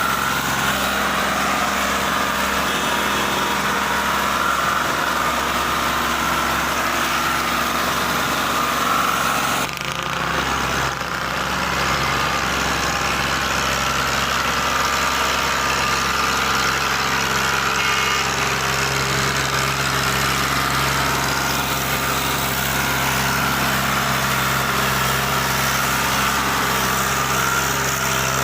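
Fiat 480 tractor's diesel engine running steadily, with a brief dip in level about ten seconds in.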